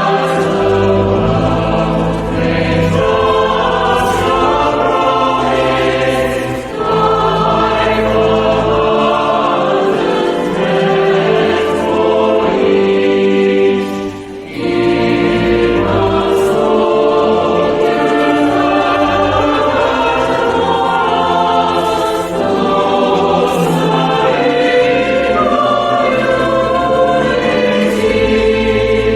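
A choir singing a sacred piece in long sustained phrases, with brief pauses between phrases about a quarter and halfway through.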